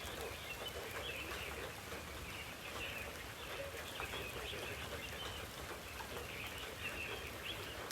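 Birds chirping and calling continuously, many short overlapping notes, over a steady background hiss.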